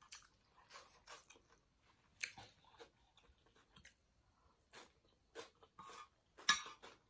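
Close-miked chewing and mouth sounds of eating a Thai glass-noodle salad, with scattered small clicks and a metal spoon scraping the plate, the loudest near the end.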